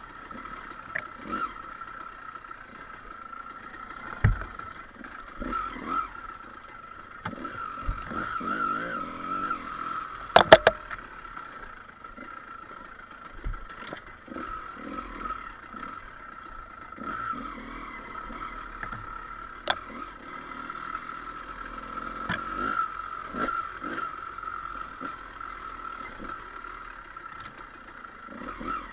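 Trail motorcycle running steadily over rough ground, with sharp knocks and clatter as the bike bumps along, the loudest a double knock about ten seconds in.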